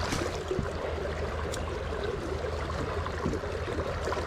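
Steady rush of creek water spilling over a small rock ledge and flowing past a kayak held in strong current.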